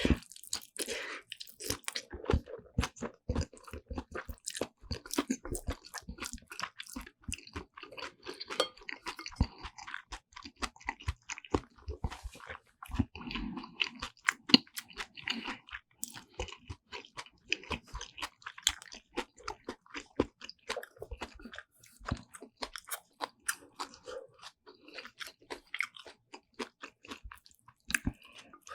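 Close-miked chewing of black bean noodles and side dishes, an unbroken run of sharp wet clicks and crunchy bites.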